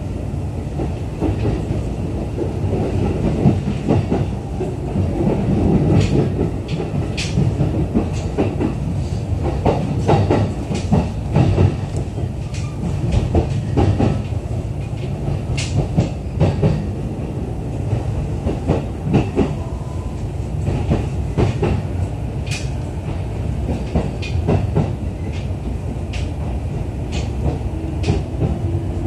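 Running noise inside a JR East E531 series commuter train car: a steady low rumble of wheels on the rails, with frequent irregular clicks as the wheels pass over rail joints.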